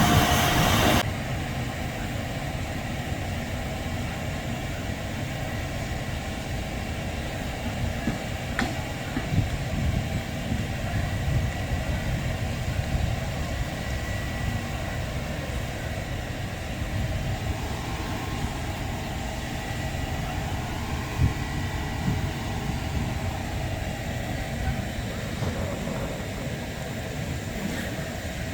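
A loud rushing noise cuts off about a second in, leaving a steady low mechanical rumble.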